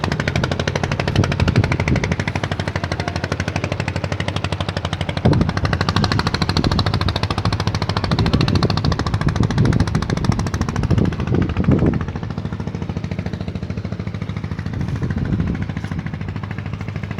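A small engine running steadily with a rapid, even pulse, a little quieter after about twelve seconds.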